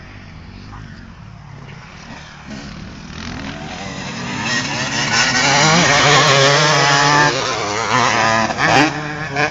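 Motocross bike engine coming closer and getting louder, its pitch rising and falling as the throttle is worked, loudest about six to seven seconds in, then easing off with one more short burst of revs near the end.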